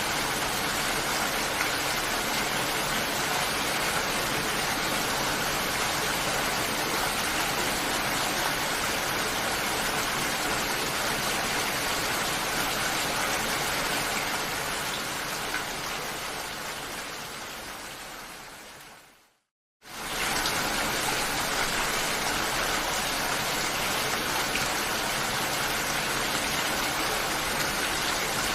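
Steady, heavy rain. About two-thirds of the way through it fades out over several seconds to a moment of silence, then comes straight back in at full level: the join where the rain recording loops.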